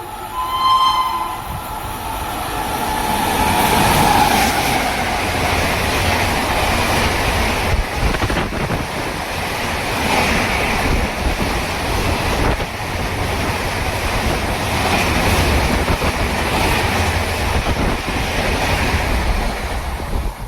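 Train passing at speed: a short horn blast about half a second in, then the loud rush and rumble of the train going by, with wheels clattering over the rail joints.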